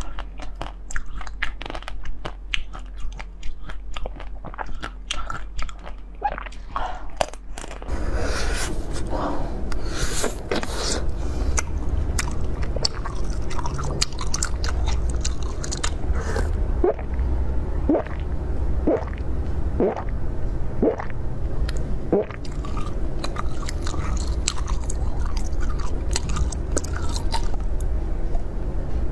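A person biting and chewing crunchy food close to the microphone. The first several seconds are quick, sharp crunches. From about eight seconds in the chewing sounds wetter and fuller, over a louder low hum.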